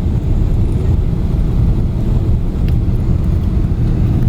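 Steady, loud rumble of an airliner heard from inside the passenger cabin: engine and airflow noise with no distinct tones.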